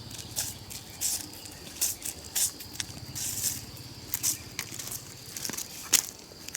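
Irregular crackling and rustling of dry leaves and undergrowth being disturbed, over a steady high-pitched insect trill.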